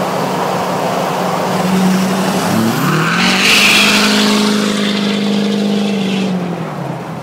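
2007 Duramax LBZ 6.6-litre turbo-diesel V8 through a 4-inch straight-pipe exhaust, accelerating hard. The engine note climbs sharply about two and a half seconds in, holds high with a loud hiss over it, then drops back near the end.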